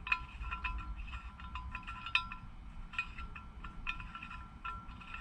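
Light, irregular metallic clinks with a brief ringing, several a second, as a brass threaded insert on a bolt is turned by hand into a zinc die-cast carburetor float bowl.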